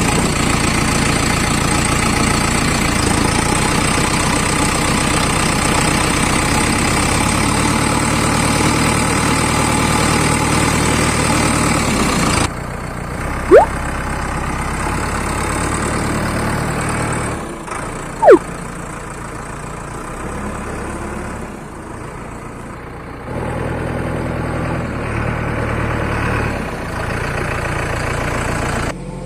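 Backhoe loader diesel engine running steadily, across several clips joined by sudden cuts. About halfway through there is a brief, loud whistle-like rising glide, and a few seconds later a matching falling one.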